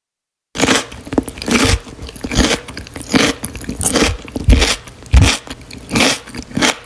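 Close-miked biting and chewing of crunchy food, as in a mukbang ASMR: a loud crunch every second or less, with crackling between, starting about half a second in.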